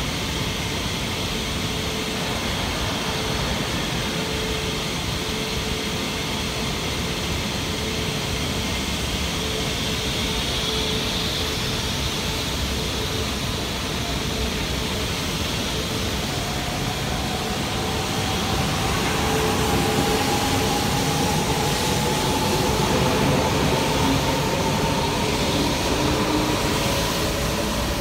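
E4 series double-decker Shinkansen standing at the platform with a steady hum, then pulling away from a bit past halfway, its traction motor whine rising slowly in pitch in several tones as it gathers speed.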